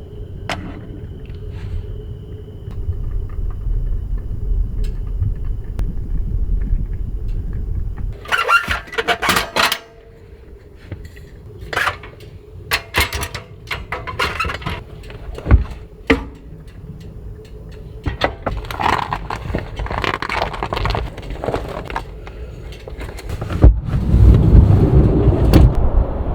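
Strong gusting wind rumbling on the microphone, with sharp clicks and knocks of gear being handled partway through.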